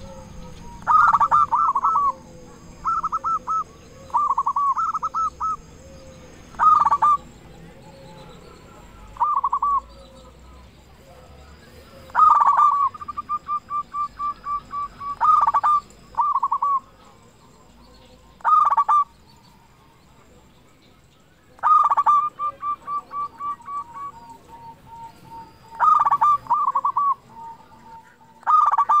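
Zebra dove (perkutut) singing: about a dozen short bursts of rolling, bubbling coos, some phrases followed by a run of quick, evenly spaced notes that fade away.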